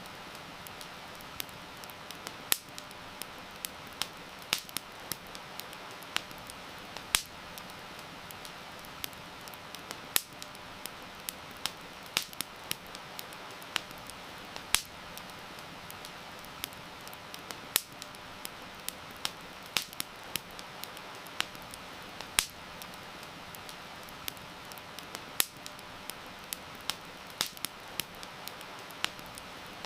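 Wood fire crackling: irregular sharp pops and snaps, several a second, some much louder than others, over a steady soft hiss.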